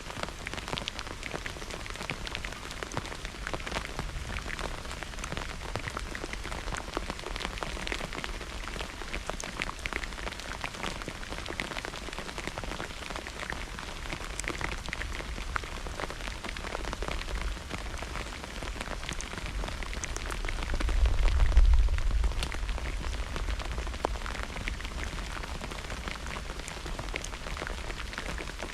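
Steady heavy rain pattering on surfaces, with many close individual drop hits. About two-thirds of the way through, a low rumble swells for a couple of seconds and fades.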